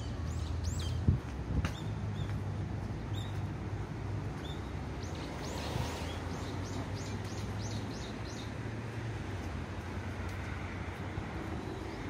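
A bird calling with quick, high, falling chirps, a few near the start and a run of about eight in a row around the middle, over a steady low rumble. Two sharp taps come about a second in.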